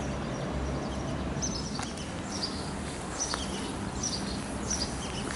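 Small birds chirping, short high calls falling in pitch and repeating about once a second, over a steady low outdoor rumble.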